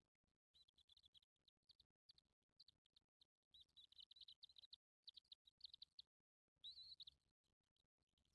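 Faint bird chirping: clusters of short, quick, high chirps, with one slightly longer call about seven seconds in.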